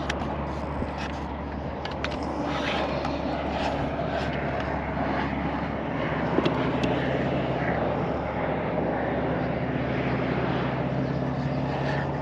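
A steady engine-like drone with a low hum over an even noise haze, with a few faint clicks and light knocks scattered through it.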